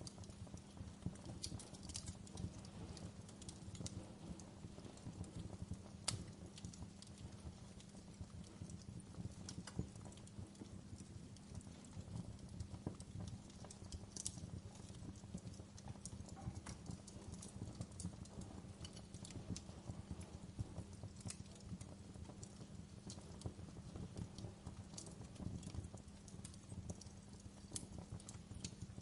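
Wood fire crackling: scattered sharp pops and snaps at irregular intervals over a steady low rumble, with one louder pop about six seconds in.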